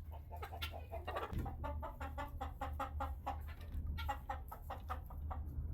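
Chickens clucking, a run of short, quick clucks with a steady low hum underneath.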